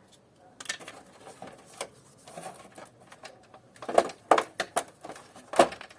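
Irregular clicks and knocks of plastic and metal parts being handled and pulled apart during air conditioner disassembly, getting louder and busier after about four seconds.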